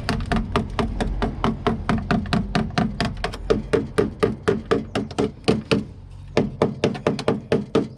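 A hammer tapping rapidly on a car's rusty steel sill and wheel arch, about four to five light taps a second with a short metallic ring, pausing briefly about six seconds in. The tapping is testing the bodywork for rot: solid metal rings, while rusted-through spots give way.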